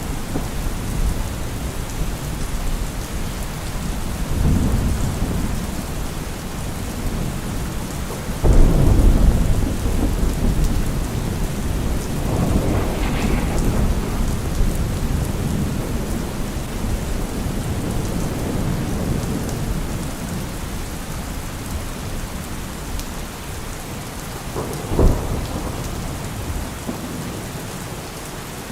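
Heavy rain falling steadily, with deep low rumbles swelling in: a loud one starting suddenly about eight seconds in and fading over several seconds, and a short sharp one near the end.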